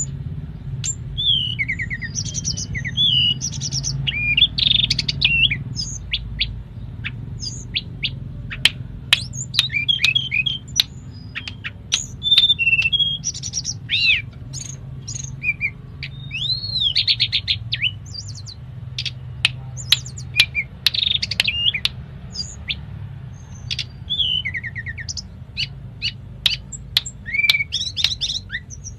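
A tledekan gunung sings a varied, continuous song. It mixes whistled phrases, rising-and-falling notes and sharp high chips, with mimicked phrases of other birds worked in. A steady low hum runs underneath.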